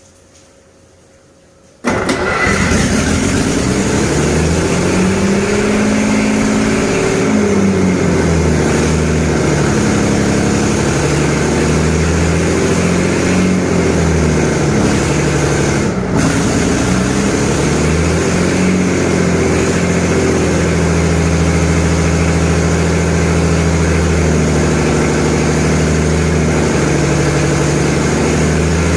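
Detroit Diesel 6-71 two-stroke inline-six diesel engine starting abruptly about two seconds in and running loudly. Its speed rises and falls over the next several seconds, then settles to a fairly steady run in the second half.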